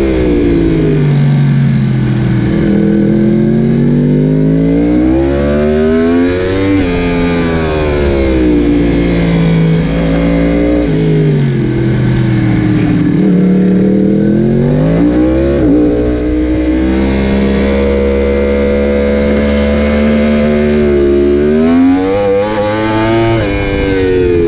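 Yamaha YZF-R1's crossplane inline-four heard from onboard at racing speed, the engine note climbing under acceleration and dropping back on braking and downshifts, several times over.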